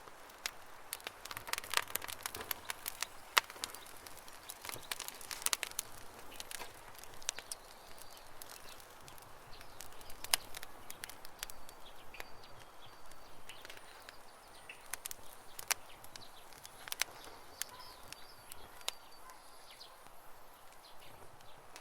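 Wood campfire crackling with frequent sharp pops, busiest in the first few seconds. Birds chirp faintly in the background, mostly in the second half.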